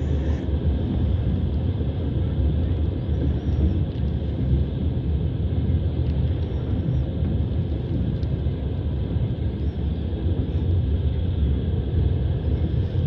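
Passenger train running along the track: a steady rumble of wheels on rails and the moving carriage, heard from inside the car at the window.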